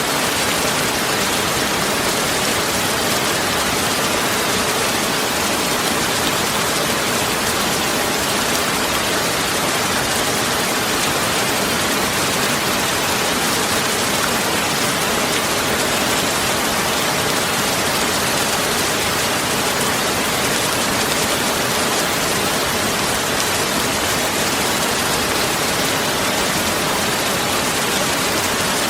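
A steady, even hiss, unchanging throughout.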